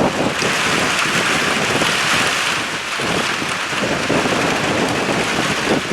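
Rain and wind of a storm, with wind blowing across the microphone.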